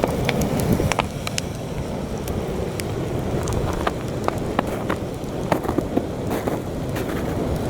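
Campfire crackling, with frequent sharp pops and snaps, over a steady low rumble of heavy wind blowing across the microphone.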